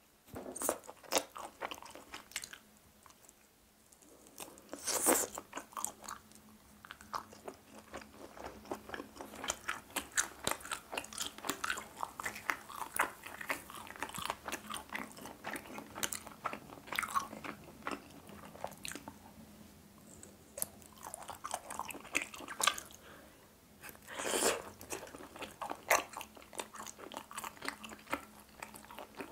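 Chewing and biting of chicken heart skewers: many small irregular mouth and teeth clicks, with louder bites about five seconds in and again about three-quarters of the way through.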